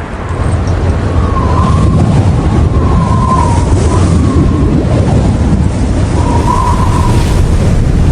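Strong wind buffeting the microphone: a loud low rumble that sets in within the first half second and holds, with a faint wavering whistle now and then.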